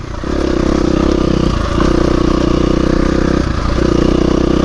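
Dirt bike engine running under throttle while riding, its note briefly dropping off twice, about a second and a half in and again around three and a half seconds in, before picking back up.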